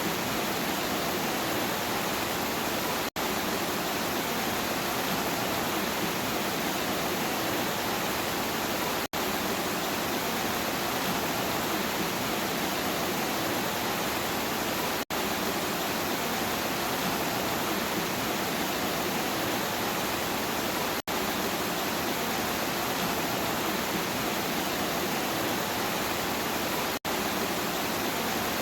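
Steady rain falling as an even hiss, broken by a momentary gap in the sound about every six seconds.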